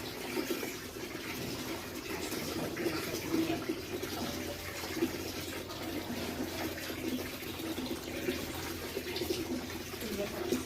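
Steady rushing noise like running water, even throughout with no clear events.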